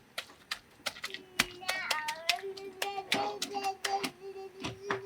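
A child singing a long, mostly held note, with a short slide in pitch about two seconds in, over many sharp clicks and taps.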